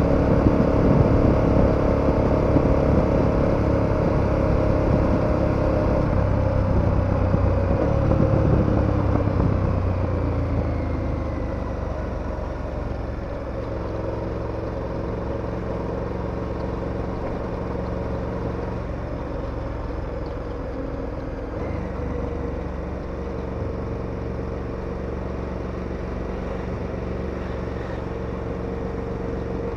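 KTM 1290 Super Adventure V-twin engine running on the move, louder under throttle at first, then easing off about a third of the way in and settling to a steady cruise. Road and wind noise run underneath.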